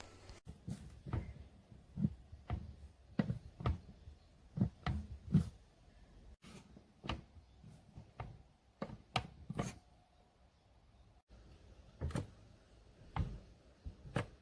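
Irregular knocks and clunks, several a second in the first few seconds and more scattered after that.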